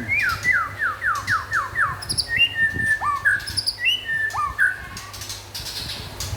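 White-rumped shama (murai batu) singing: a quick run of about six falling notes, then a few sharp whistled phrases that jump up and drop, growing quieter near the end.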